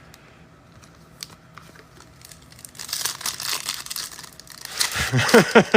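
Foil trading-card pack wrapper crinkling and tearing as it is ripped open, starting about three seconds in after a quiet stretch of small ticks.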